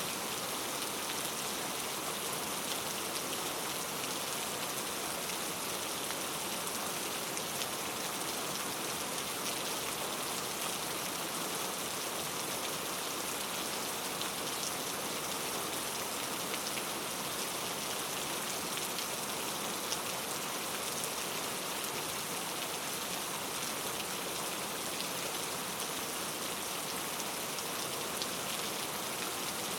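Steady rainforest rain falling on foliage, a constant hiss with many fine drop ticks.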